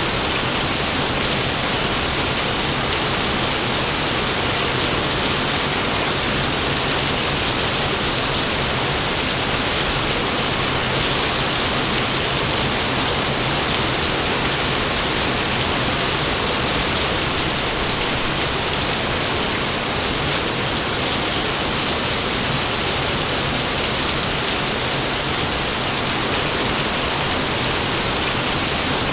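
Heavy rain pouring steadily, an even hiss with no breaks or thunder claps.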